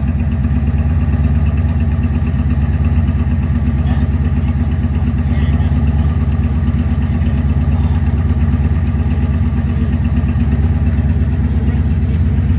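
1985 Chevrolet Corvette's 5.7-litre V8 idling steadily with no mufflers fitted, a loud, low, even exhaust note.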